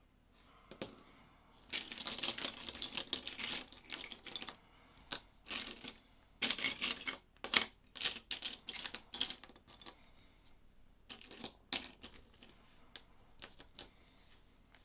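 Small plastic LEGO pieces clattering and clicking against each other and a hard surface, in several spells of rapid rattling with short pauses between.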